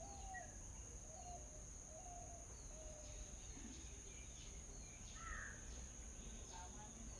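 Birds calling with short, repeated low notes about once a second and a brief higher chirp about five seconds in, over a steady high-pitched insect drone. Faint overall.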